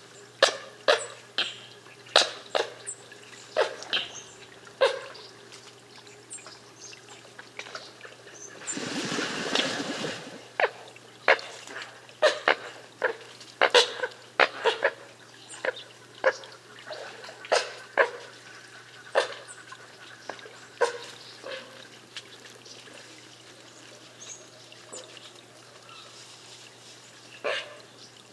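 Coots giving a long series of short, sharp single calls, several a second at times and thinning out in the last third. About nine seconds in comes a two-second rush of splashing water.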